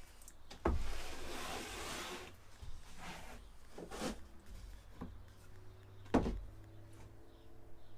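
Cut 2x4 lumber pieces being handled on a workbench: a knock, then a second or two of wood sliding and scraping, followed by several scattered knocks, the loudest about six seconds in.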